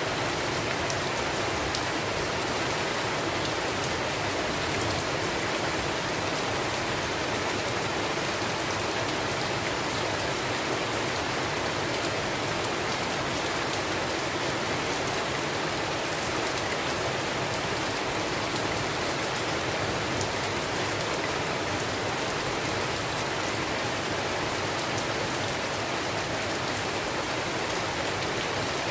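Steady rainstorm: a dense, even hiss of rain with fine scattered drop ticks, holding the same level throughout.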